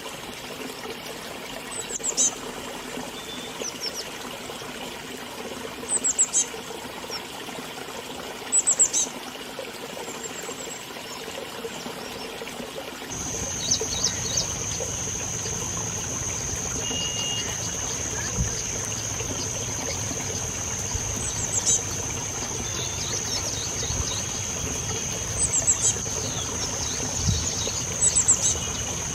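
River water running with a steady hiss while small birds give short, quick chirps in scattered groups. About halfway through the water gets fuller, and a steady, high-pitched insect trill starts and holds on.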